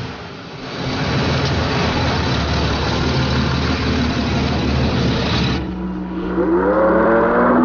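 Racing car engines at speed: a dense, noisy engine sound, then from about six seconds in a single engine accelerating, its pitch rising steadily.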